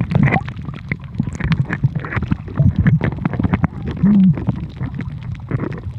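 Muffled underwater sound picked up by a submerged camera while snorkeling: a low rumble of moving water with many small clicks and taps against the camera, and a short low muffled hum about four seconds in.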